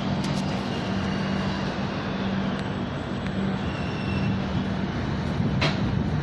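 Shatabdi Express coach heard from inside while the train is running: a steady rumble with a low hum, and one sharp click near the end.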